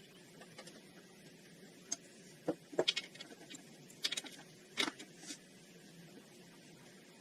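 Work sounds from tools and parts being handled during the bearing job: a scattered run of short, sharp clicks and knocks, bunched in the middle few seconds over a low, steady background.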